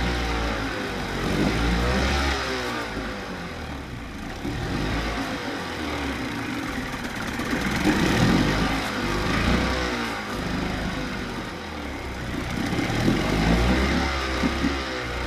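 1993 Evinrude 25 hp two-stroke outboard motor running, its engine speed rising and falling several times as the throttle is worked.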